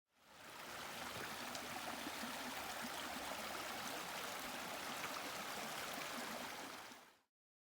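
A stream running with a steady rushing and babbling. It fades in at the start and cuts out about seven seconds in.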